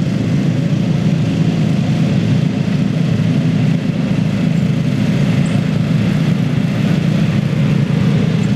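Riding lawn mower engine running steadily at a constant speed, with no change in pitch.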